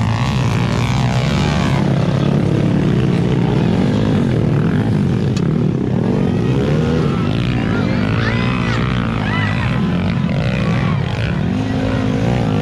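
Several dirt bike engines running and revving, their pitch rising and falling as throttles open and close.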